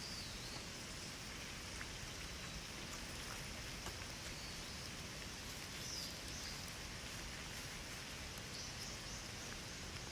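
Steady rush of running water from a clear mountain river, with a few faint, short high chirps about six and nine seconds in.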